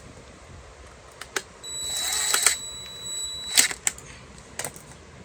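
Clicks and knocks of parts being fitted back into a car door. In the middle a noisy stretch of about two seconds carries a steady high whine, and it ends in a sharp click, with a few more clicks after it.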